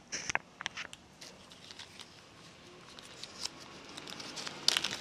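Small sharp clicks and taps as volume spacer tokens for a Fox 34 fork's air spring are handled and fitted, with a quick cluster of clicks at the start, a few scattered ticks, and more clicks near the end.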